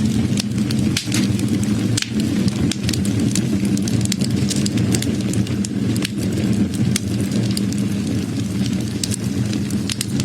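Wood fire burning, with many irregular sharp crackles and pops from the burning wood over a steady low rumble of the flames.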